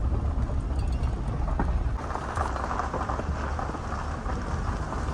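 A pickup truck carrying a camper driving along a gravel forest road: tyres crunching and crackling over loose gravel over a steady low road rumble.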